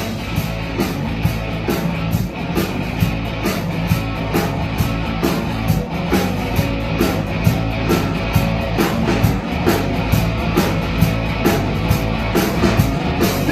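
Rock band playing an instrumental passage, with guitar and a drum kit keeping a steady beat.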